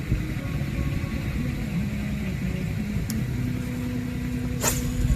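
An engine running steadily with a low, wavering hum, and a sharp click near the end.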